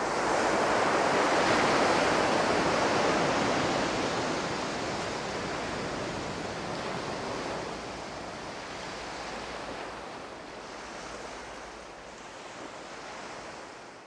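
Ocean surf: a steady rushing wash that swells over the first couple of seconds and then slowly dies away.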